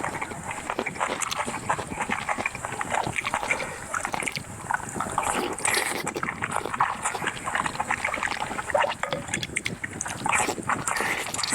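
Close-miked eating sounds: continuous chewing and wet mouth smacking, with a dense run of small clicks throughout.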